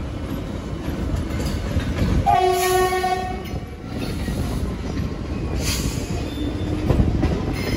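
Running noise of an EMU local train, heard from its open doorway as a steady rumble. A little over two seconds in, a train horn sounds once for about a second.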